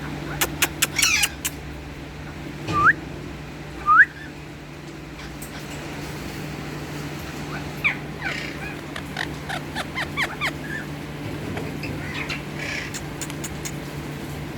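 Pet parakeet calling: quick sharp chirps, then two short rising whistles a second apart, then a run of short chirps later on, over a steady low hum.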